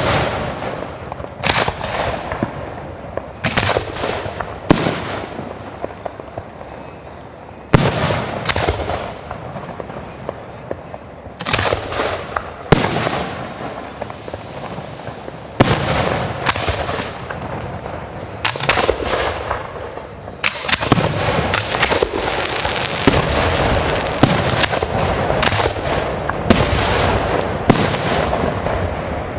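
Aerial fireworks display: a string of sharp shell bursts, some followed by long crackling tails, growing into a dense run of overlapping bangs and crackle in the second half.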